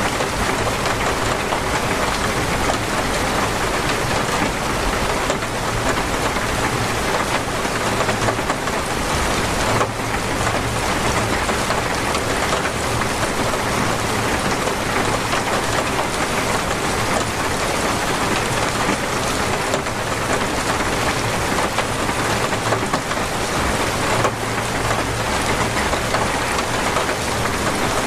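Torrential rain falling steadily in a dense, unbroken hiss, with a low rumble underneath that swells and fades.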